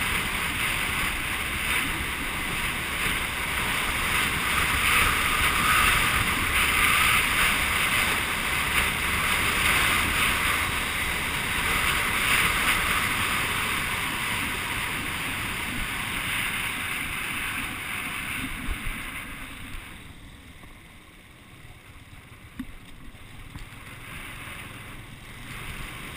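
Wind rushing over the microphone of a camera on a moving Honda CG125 motorcycle, the engine buried under it. The rush drops away noticeably about nineteen seconds in, leaving a quieter stretch with a few brief knocks.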